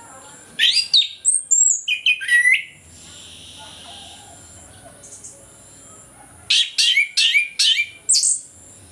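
Orange-headed thrush singing its full, open song (ngeplong): two phrases of quick, sliding whistled notes, one near the start and one about six seconds in.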